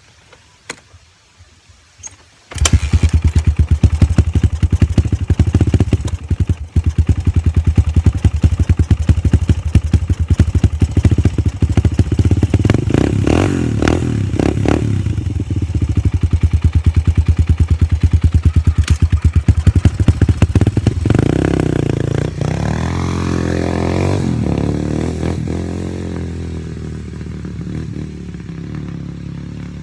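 Dirt bike engine cold-starting: a few light clicks, then it catches about two and a half seconds in and runs loud with a fast, even firing beat. It is revved now and then, rising and falling in pitch, and grows gradually fainter near the end.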